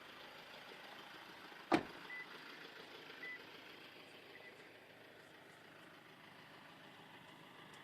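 A sharp click, then three short high beeps about a second apart: the 2013 Toyota RAV4's power tailgate operating, with its warning beeps sounding as it moves.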